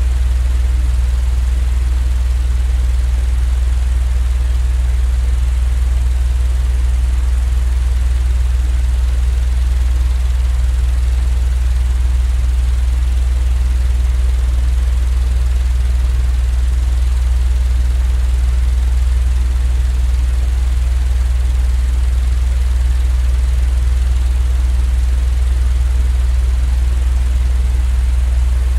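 Steady, unchanging low hum with a soft hiss above it: a continuous noise track for lulling a baby to sleep.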